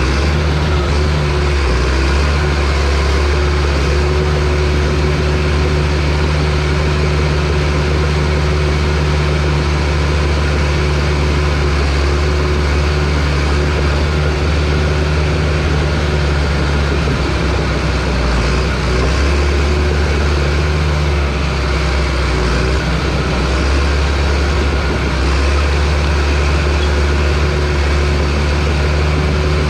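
Diesel engine of a John Deere crawler bulldozer running steadily with a low, even drone.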